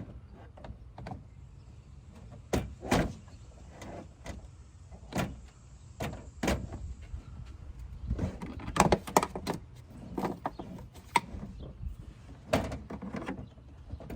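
Scattered knocks, clunks and scrapes of plastic cold-air-intake parts being handled and pushed into place in an engine bay, with a busy run of clatter about two-thirds of the way through. The engine is not running.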